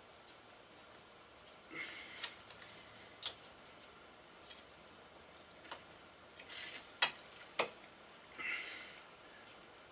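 A few sharp metallic clicks and clinks, with brief scraping or rustling, from hand tools and small parts being handled during motorcycle disassembly.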